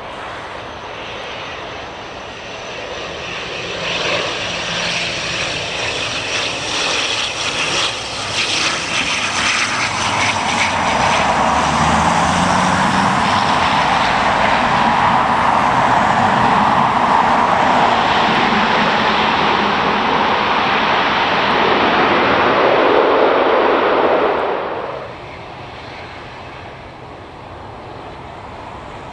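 Airliner engines passing close, the noise building over several seconds into a loud, steady rush, then cutting off suddenly near the end.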